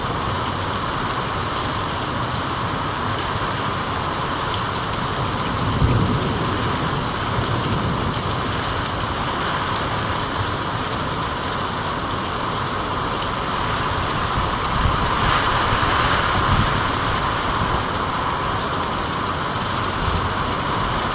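Steady rainfall, an even hiss, with a few brief low thumps, one about six seconds in and another near the end.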